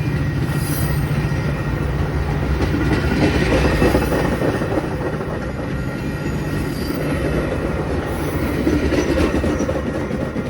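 A train passing close by, with a steady low rumble of wheels on rail and thin squealing tones above it.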